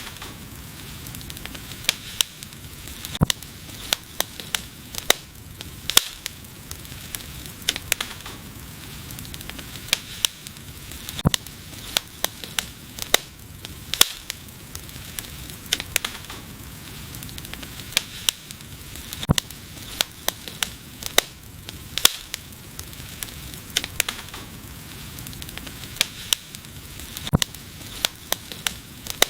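Wood fire burning: irregular sharp crackles and pops over a steady soft hiss.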